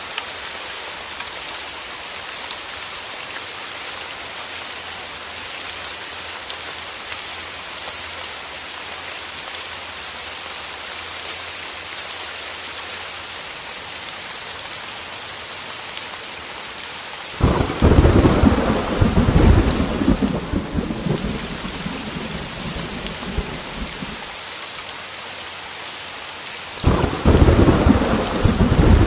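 Steady heavy rainfall hissing. About two-thirds of the way through, a sudden loud rumble of thunder cuts in and rolls for several seconds. A second thunderclap rumbles in near the end.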